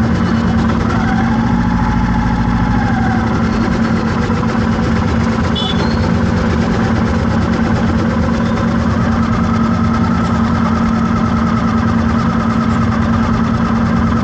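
Motor vehicle engine running steadily at idle in stalled traffic, with a constant hum and faint tones of other traffic around it.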